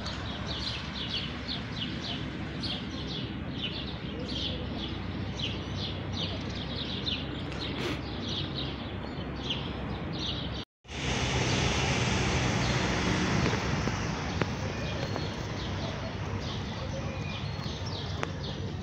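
House sparrows chirping, many short repeated chirps over a steady background hiss. About ten seconds in, the sound cuts out for a moment; after it the background hiss is louder and the chirps are sparser.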